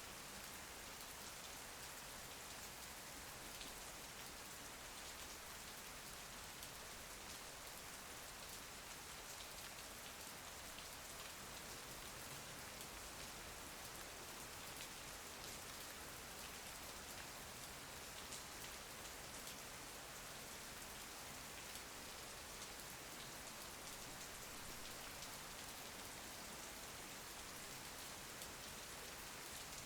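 Steady rain falling, a continuous patter of many small drops with no thunder.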